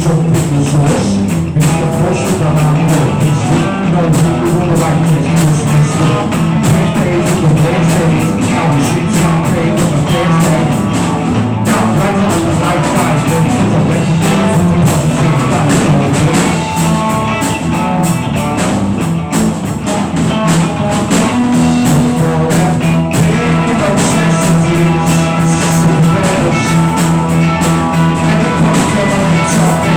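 Rock band playing an instrumental improvised jam, guitar over a steady drum kit beat.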